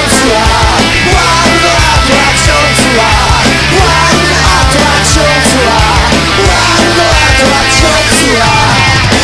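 Loud punk-rock band music: distorted guitars, bass and drums playing an instrumental passage, with the bass line shifting note every few seconds.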